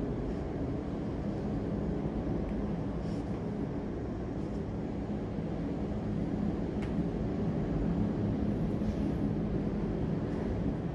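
A steady low droning rumble, like a machine or distant traffic, with a faint click about seven seconds in.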